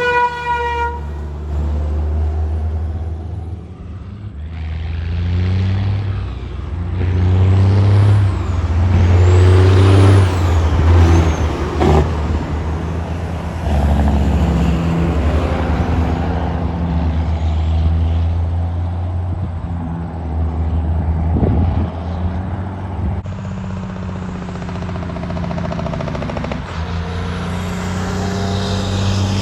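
Heavy diesel trucks driving past one after another, engines running low and tyres hissing, the loudest pass about ten seconds in. A horn sounds at the start and cuts off about a second in.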